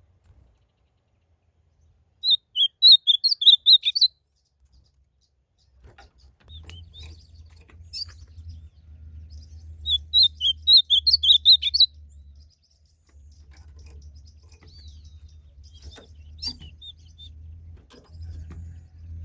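Ultramarine grosbeak (azulão) singing two short warbled phrases of quick rising and falling notes, each about two seconds long: one a couple of seconds in, the other about ten seconds in. A low steady rumble sets in midway.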